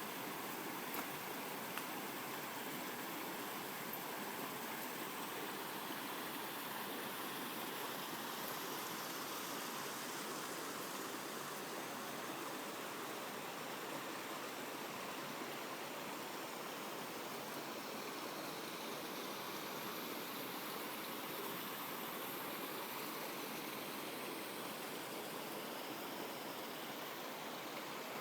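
A shallow brook babbling over rocks: a steady, even rush of running water.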